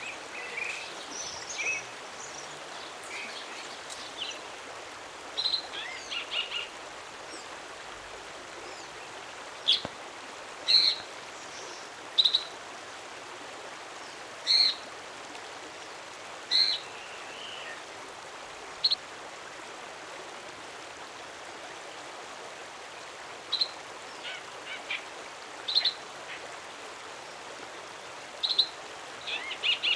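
A wild bird calling in short, high notes spaced a second or two apart, with a quick run of notes near the end, over a steady background hiss.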